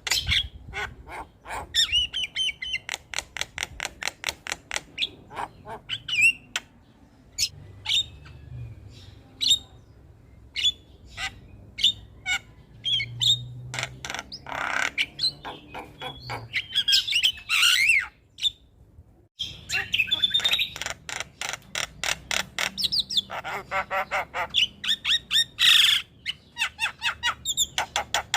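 Javan myna (jalak kebo) song: fast runs of clicking notes mixed with whistles and harsh squawks, breaking off briefly about two-thirds of the way through.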